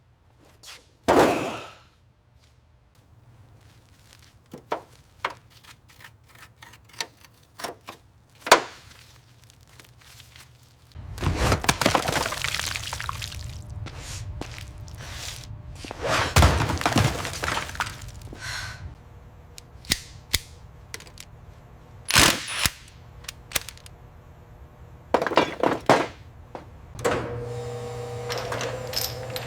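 Hands-on work on a car: a run of separate clicks, knocks and thunks from tools and parts being handled. Twice, about a third of the way in and again just past halfway, there are several seconds of hissing noise, like spraying or blowing air.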